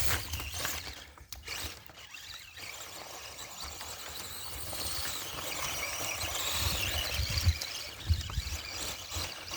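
Castle Creations brushless motor and gear drivetrain of an Axial Wraith RC truck whining, a high-pitched sound that grows louder through the middle few seconds.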